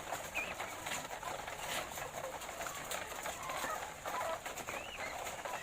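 A flock of laying hens calling and clucking, many short overlapping calls, with a few sharp clicks among them.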